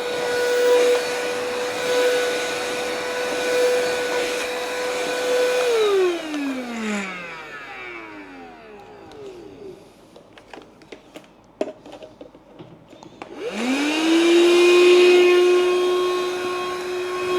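Cheap handheld mattress vacuum cleaner's motor running with a steady whine, then switched off about six seconds in and winding down. A few clicks follow as it is handled. It is switched back on a little after thirteen seconds, spinning up to a steady, lower whine.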